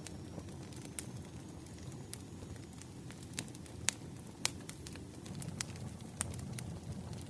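Firewood burning: a steady low rumble of flames with sharp crackles and pops scattered through, two louder pops about halfway.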